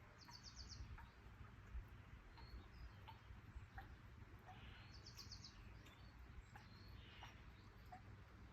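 Faint birdsong: scattered short chirps, with a quick high trill of about five notes near the start and again about five seconds in, over a low steady rumble.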